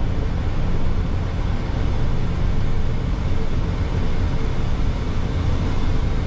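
Steady cockpit noise of an airliner shortly after takeoff: a constant rush of engine and airflow noise, heaviest in the low range, with no changes.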